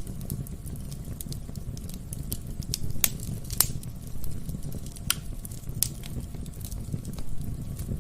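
Wood fire burning in a fireplace: a steady low rumble of flames with irregular sharp crackles and pops from the burning logs, a few louder pops about three, three and a half and five seconds in.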